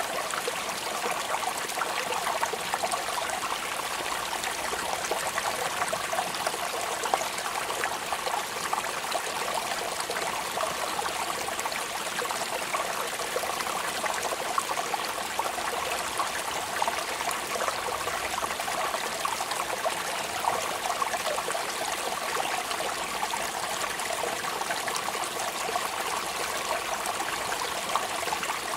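Steady rain falling, an even dense patter of drops with many small sharp ticks and no let-up.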